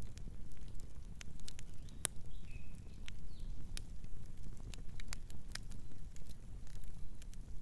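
Wood fire burning: a steady low rumble of flames with sharp, irregular crackles and pops, about two a second.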